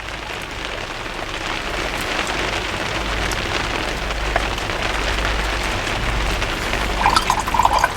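Hard rain falling on the roof of a garden studio: a steady hiss with a low rumble beneath, growing louder over the first few seconds.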